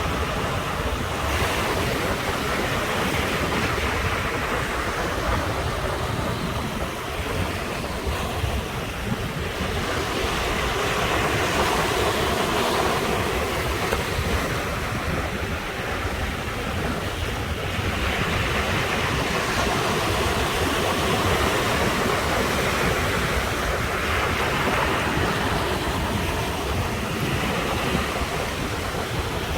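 Ocean waves surging and washing ashore in a steady roar that swells and eases every several seconds, with wind buffeting the microphone.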